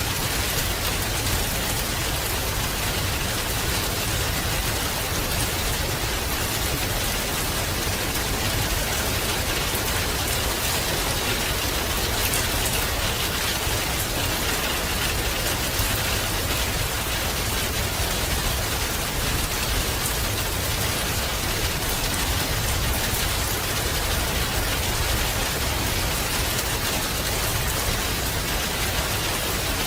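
Steady rain falling and pattering on a surface, a dense even hiss with fine drop crackle and a low rumble underneath.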